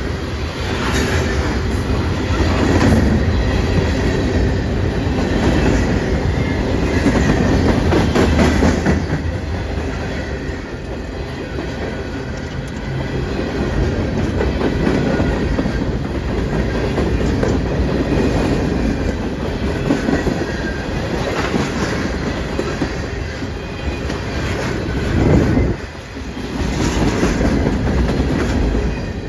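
A train rolling past, its wheels clacking over the rail joints, with a brief lull near the end.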